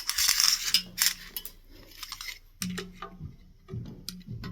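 Ceiling fan hardware being handled: a brief rustling scrape, then a few light metallic clinks and clicks.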